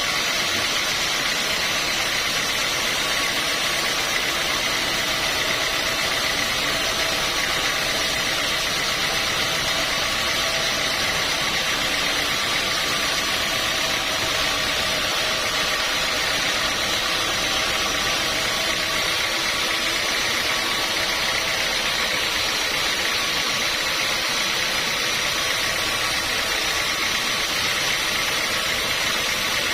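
Sawmill machinery running steadily, an even mechanical noise with a constant high whine that does not change.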